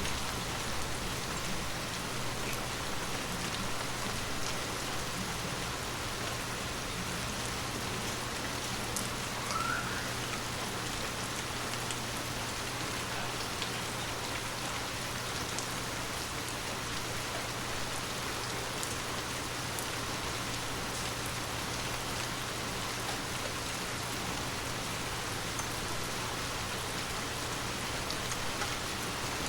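Heavy rain falling steadily: an even hiss of rain with scattered sharper drop ticks.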